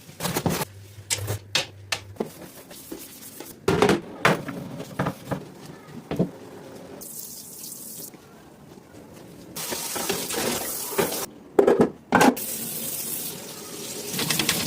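Water running from a tap in spells, with repeated knocks and clatter of items being handled.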